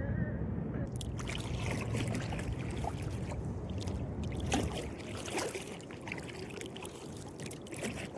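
Kayak paddle dipping and splashing in the river, several uneven strokes with water dripping off the blade, over a low steady background rumble.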